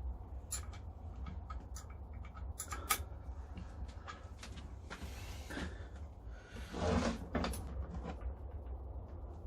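Scattered clicks and light knocks of steel grinder parts and tools being handled and fitted during assembly, with two short scraping, rubbing sounds partway through, over a steady low hum.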